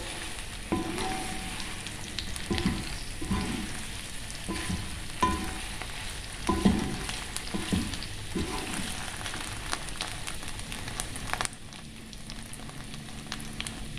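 Chicken pieces sizzling in a thickening honey garlic sauce in a stone-coated pot, with a wooden spatula stirring and scraping against the pan every second or two. The stirring stops about three-quarters of the way through, and the sizzle carries on a little quieter.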